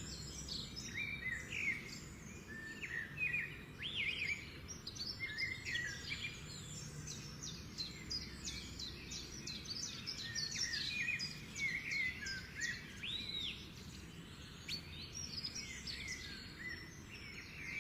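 Several small birds chirping and calling together: a busy run of short chirps, trills and whistled notes, over a faint low steady background hum.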